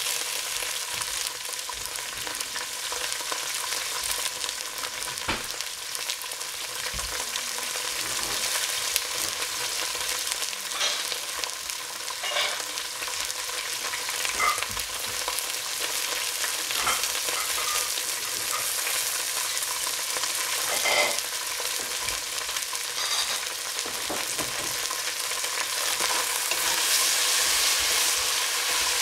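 Green beans frying in oil in a stainless steel pot, a steady sizzle. Near the end a spoon stirs them around the pot and the sound grows a little louder.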